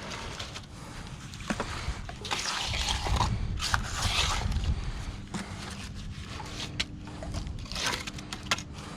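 Irregular scraping from hand work with wet concrete, loudest for a couple of seconds in the middle, with a few sharp knocks.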